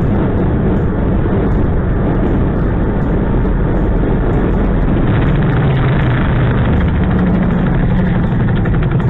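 Steady engine and road rumble of a car being driven, picked up by a dashcam's narrow-sounding microphone, with no crash impact heard.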